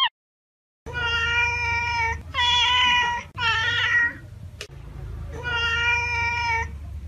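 Domestic cat meowing four times, starting about a second in. The meows are long and drawn out, about a second each, and the third slides down in pitch at its end. A low steady hum runs underneath.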